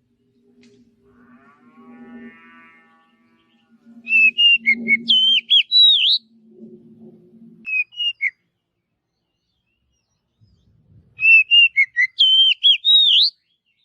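Oriental magpie-robin singing: a burst of rapid, loud whistled notes that slide up and down, starting about four seconds in and repeated near the end.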